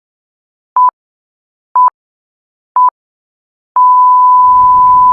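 Electronic countdown beeps, all on one pitch: three short beeps about a second apart, then a long beep starting near the end. A low rumble comes in under the long beep.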